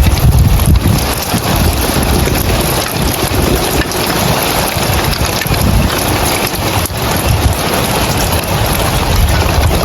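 Heavy rain falling on roof tiles: a dense, steady hiss with a low rumble underneath.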